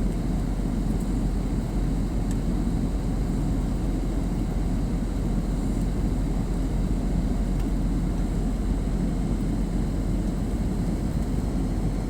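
Steady low roar of a passenger airliner's cabin noise in flight, even and unchanging throughout.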